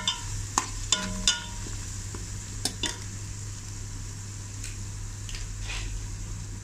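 Sliced onions and ginger-garlic paste sizzling steadily in hot ghee in a metal pot as they are fried, stirred with a steel spoon. The spoon clinks and scrapes against the pot about six times in the first three seconds, over a low steady hum.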